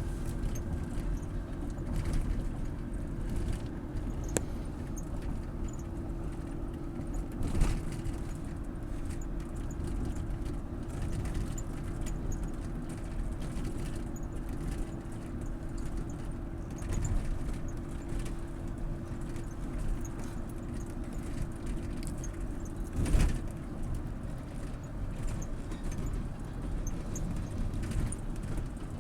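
Road noise inside a moving car: a steady low rumble with a constant hum and light rattling, broken by two sharp thumps, one about a quarter of the way in and one about four fifths of the way in.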